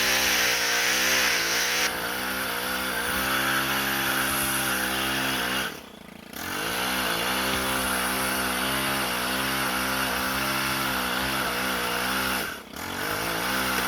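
A large engine running with a slightly wavering pitch and a hiss on top. It drops away briefly about six seconds in and again near the end, then picks back up.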